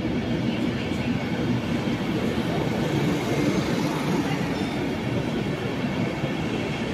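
DB Intercity passenger coaches rolling past along the platform: a steady rumble of wheels on the rails.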